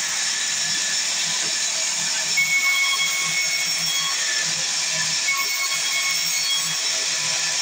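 Sawmill saw cutting through wood: a steady hissing rasp laced with high whining tones, with a louder squeal about two and a half seconds in.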